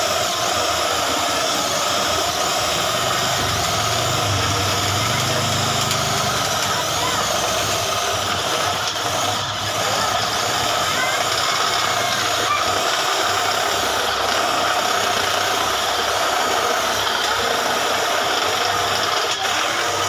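A small electric motor or power tool running steadily at constant speed, then switched off abruptly at the very end.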